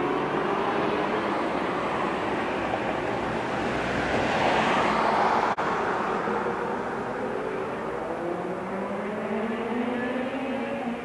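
A motor vehicle driving past, its engine note shifting in pitch; it grows loudest about halfway through, then fades away.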